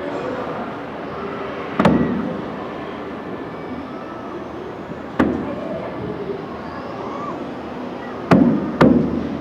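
Distant fireworks shells bursting: four sharp booms, about two seconds in, about five seconds in, then two close together near the end, each with an echoing tail, over a steady urban background hum.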